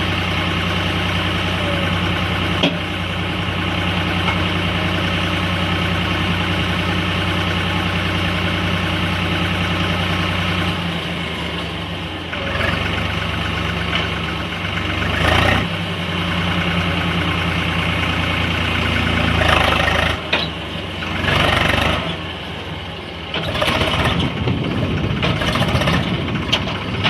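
Swaraj tractor's diesel engine running: a steady note for about the first ten seconds, then its speed shifting, with a few sharp knocks in the second half.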